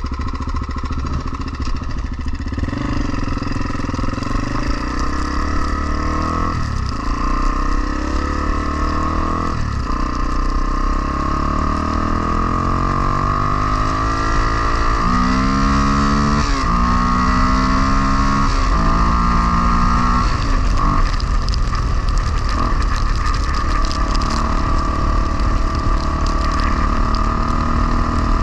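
Honda XR250R single-cylinder four-stroke dirt bike engine under way, revving up and shifting gears. Its pitch climbs and then drops sharply several times as it changes gear.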